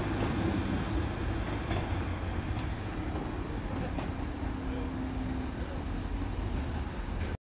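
Diesel train rumbling steadily as it pulls away down the line.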